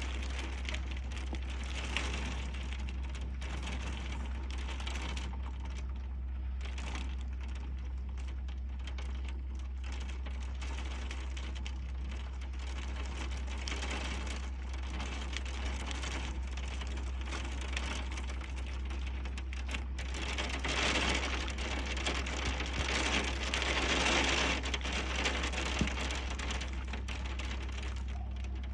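Hailstones mixed with heavy rain pelting down, a dense, rapid rattle of small hard impacts that grows heavier about two-thirds of the way through.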